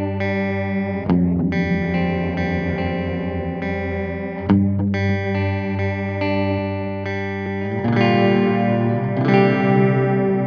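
Electric guitar chords played through an analog bucket-brigade-style delay pedal, each chord ringing on with its delayed repeats. New chords are struck about a second in, midway and near the end.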